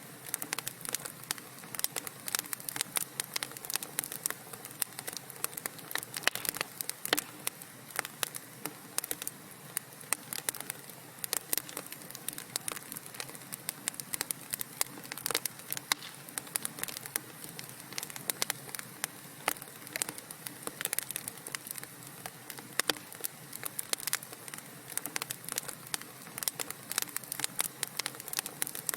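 Wood fire burning in a fireplace, crackling with frequent sharp pops and snaps over a low steady hiss.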